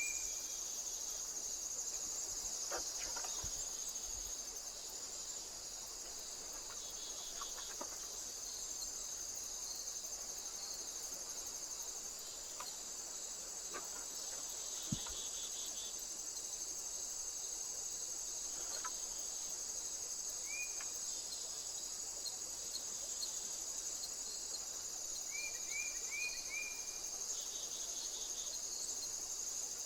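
Steady high-pitched insect chorus of trilling crickets. A bird gives a short chirp about two-thirds of the way through and a quick run of four chirps near the end, with a few faint ticks scattered through.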